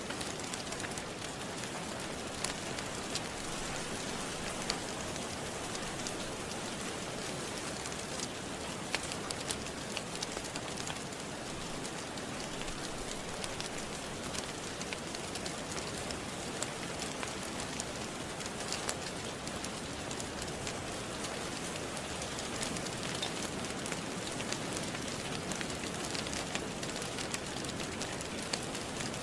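Steady rain with the scattered sharp pops and crackles of a wood fire.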